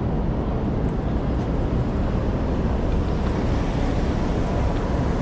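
Bicycle tyres rolling on a ride, a steady low rumble with no breaks.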